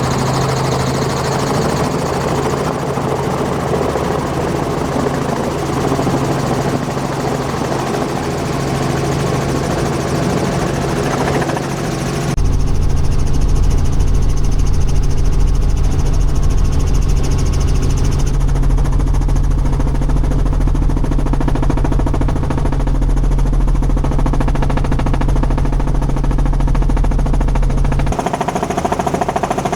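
Tour helicopter running steadily with a constant low drone. About twelve seconds in the sound switches abruptly to a louder, deeper rumble, and it changes again near the end.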